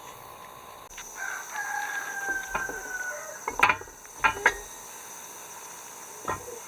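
A rooster crowing: one long crow of about two seconds. It is followed by four sharp knocks, three in quick succession after the crow and one more near the end, the first of them the loudest.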